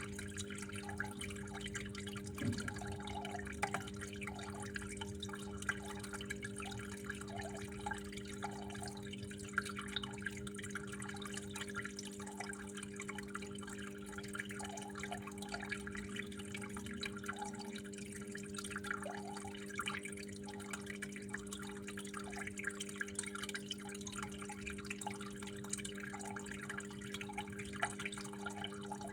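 Water trickling and dripping steadily in small irregular splashes, over a steady low hum.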